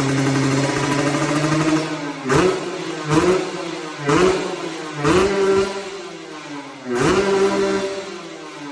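Kawasaki Ninja RR single-cylinder two-stroke engine, fitted with a NENS aftermarket exhaust, idling and then revved in five short throttle blips, each rising sharply and dropping back, before it settles toward idle near the end.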